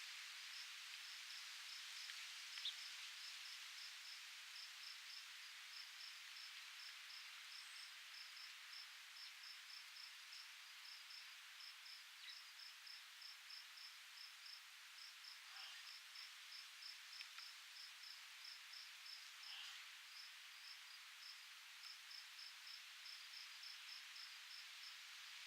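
Faint outdoor ambience: a soft, steady hiss of breeze, with a regular train of short, high insect chirps at one pitch throughout and a few faint ticks.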